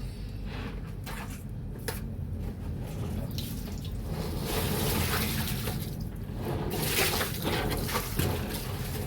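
Water sloshing and splashing as wet bedsheets are worked in soapy water during hand laundry, in uneven swells that grow louder a little past the middle.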